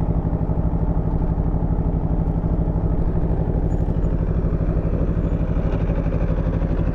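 Aprilia Tuono V4's V4 engine idling steadily with an even, unchanging pulse.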